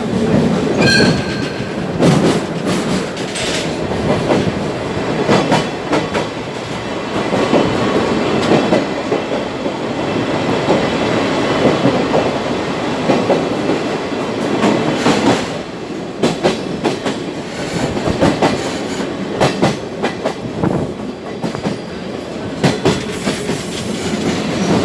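Sagano trolley train carriage running along the line: a steady rumble with irregular clicks and knocks of the wheels and carriage throughout.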